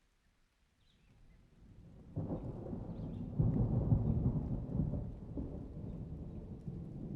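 A roll of thunder: it starts as a faint low rumble, breaks into a sudden loud clap a little over two seconds in, is loudest near the middle, then rumbles on and slowly fades.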